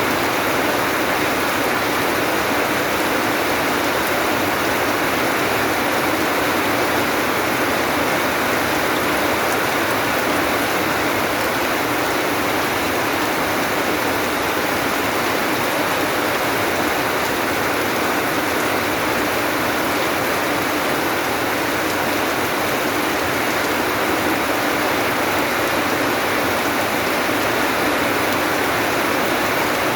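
Steady rain falling as an even, unbroken hiss, with no single drops or other sounds standing out.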